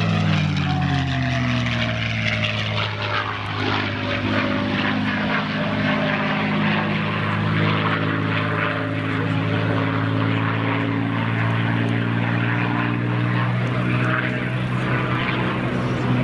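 P-51 Mustang's Packard Merlin V-12 engine in flight. The pitch drops over the first few seconds as the plane passes, then it settles into a steady drone that shifts a little in pitch.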